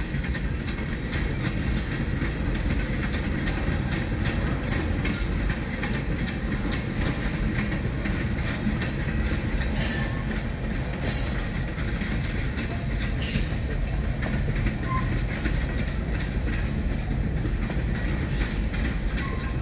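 Freight train cars, tank cars and covered hoppers, rolling steadily past: a continuous low rumble with the clatter of steel wheels on the rails, and a few short high hisses around the middle.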